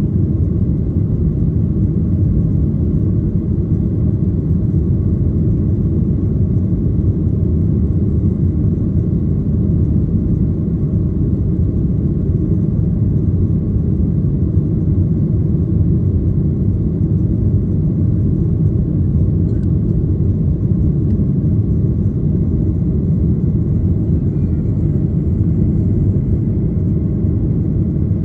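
Steady low rumble of a Ryanair Boeing 737's jet engines and airflow heard from inside the passenger cabin, holding level without rising or falling.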